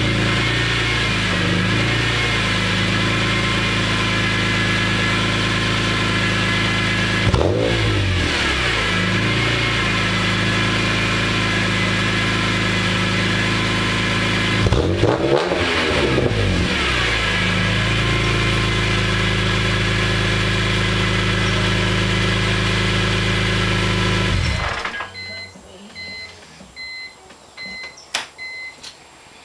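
BMW M3's S54 inline-six running through Supersprint race headers and a race exhaust: a steady idle, broken by two quick throttle blips about 7 and 15 seconds in. The engine shuts off about 25 seconds in, followed by a faint on-off beeping and a few light clicks.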